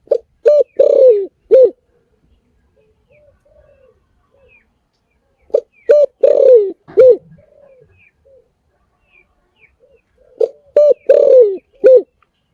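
Spotted dove cooing: three loud phrases about five seconds apart, each a few short coos ending in a longer coo that falls in pitch. Fainter coos and small high chirps come between the phrases.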